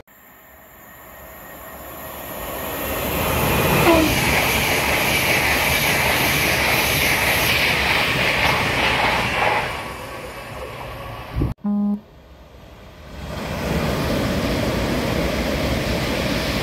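A train running past at speed: the rush of wheels on rail builds over the first few seconds, holds steady and loud, then fades about ten seconds in. After an abrupt break, a brief pitched tone sounds, and train running noise builds again near the end.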